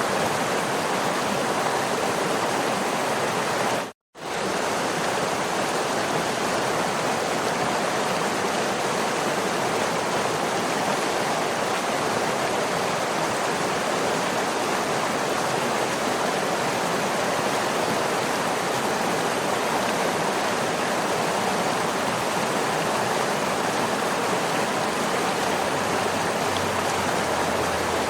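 Waterfall rushing, a steady even roar of falling water, which cuts out completely for a split second about four seconds in.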